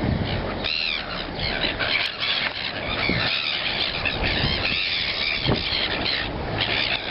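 A flock of seagulls squealing, many short high calls overlapping one another, over a steady rush of noise.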